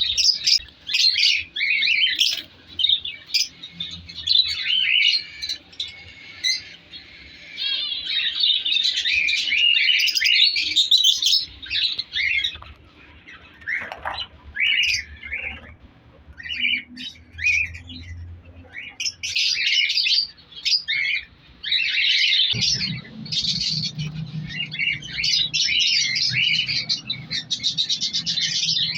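A colony of lovebirds chattering: dense, shrill, rapid chirping that thins out midway and then picks up again. A low steady hum comes in about three-quarters of the way through.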